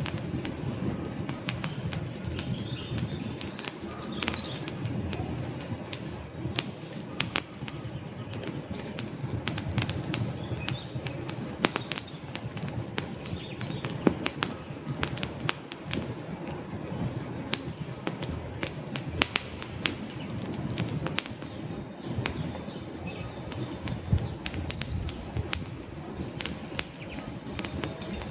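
Wood campfire burning: a steady low rush of flames with frequent, irregular sharp crackles and pops from the burning logs.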